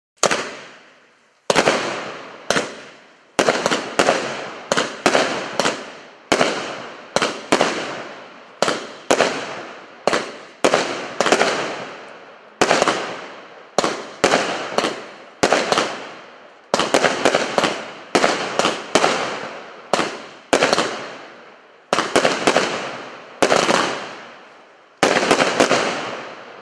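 Consumer firework cake 'Galaxy' firing a long volley of sharp shots, often two or three in quick succession, each bang dying away before the next. The shots keep coming for over twenty seconds and stop near the end.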